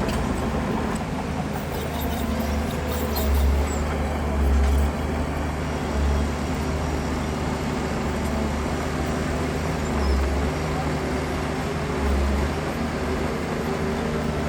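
Heavy diesel earthmoving machinery running steadily, its deep engine rumble swelling briefly now and then as it takes load.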